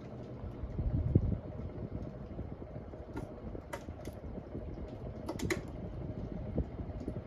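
Hampton Bay Gazebo Plus ceiling fan running with a low steady hum, a brief low rumble about a second in, and several sharp clicks and ticks, a few of them close together past the middle.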